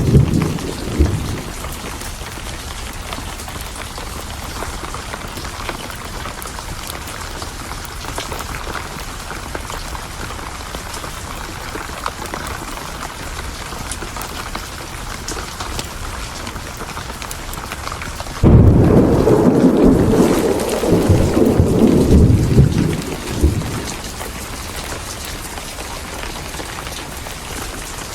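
Steady heavy rain with thunder. A rumble dies away in the first second or so, then a loud thunderclap breaks in suddenly about two-thirds of the way through and rolls on for about five seconds.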